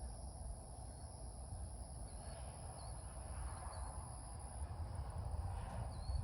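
Outdoor nature ambience: a steady high-pitched insect drone that drops out about four and a half seconds in, a few faint bird chirps, and a low steady rumble underneath.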